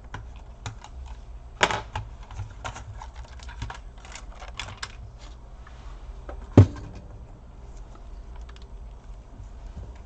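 Irregular small clicks and taps of hands and a tool on the plastic and metal parts of an opened Dell Inspiron 1525 laptop, with a louder rattling knock about a second and a half in and a single sharp knock about two-thirds of the way through.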